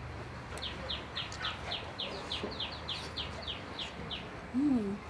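A bird calling a rapid run of about a dozen short, high chirps, each falling in pitch, roughly four a second. Near the end, a person tasting food makes a short, louder "mm" that rises and then falls in pitch.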